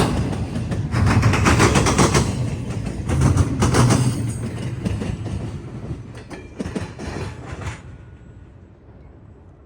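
Freight train wheels pounding over a railroad diamond crossing in clusters of heavy clacks, thinning out and fading away about eight seconds in.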